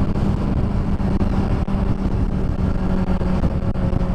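2007 Honda CBR600RR's inline-four engine running at a steady pitch while riding, with wind noise over the microphone.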